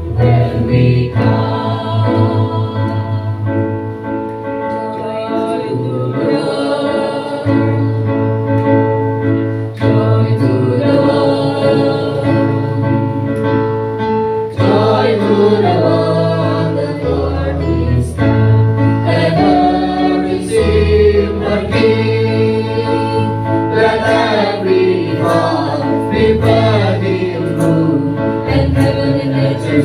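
Choir singing a Christmas song over instrumental accompaniment with a steady, sustained bass line.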